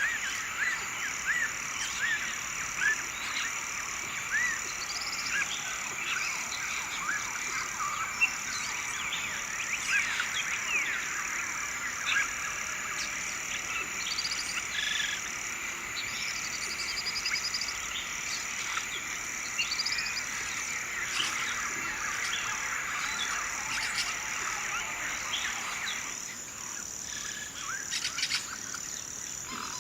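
Nature ambience: many short bird chirps and calls over a steady high-pitched chorus. Part of the chorus drops out near the end.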